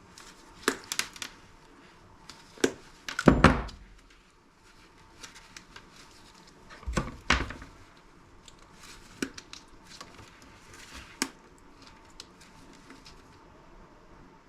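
Clicks, clatter and knocks of a device and tools being handled while it is pried apart for scrap, with two heavier thuds about three and a half and seven seconds in.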